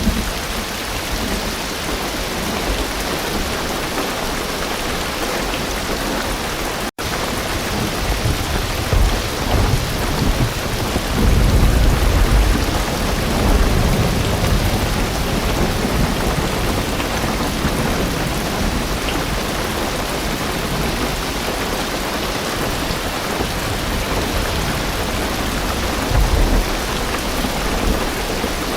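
Heavy rain drumming steadily on a car's roof and windows, heard from inside the car, with low rumbles of thunder swelling about halfway through and again near the end. The sound cuts out for an instant about seven seconds in.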